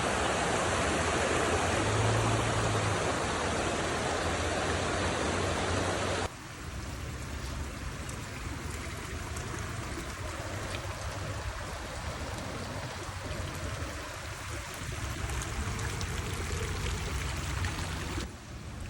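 Floodwater rushing across a yard, a steady wash of water noise. It drops to a quieter rush about six seconds in.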